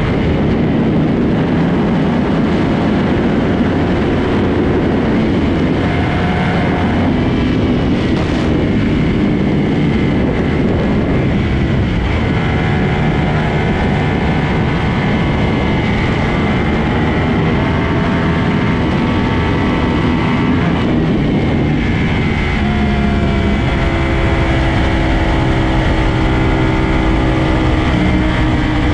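Sport motorcycle engines running hard at highway speed under a loud, steady rushing noise, the engine note climbing in pitch over the last several seconds as a bike accelerates.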